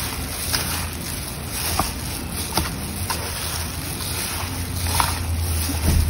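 Plastic-gloved hand tossing japchae (sauced glass noodles and vegetables) in a stainless steel bowl: soft rustling and squishing with a few short clicks against the bowl, over a steady low hum.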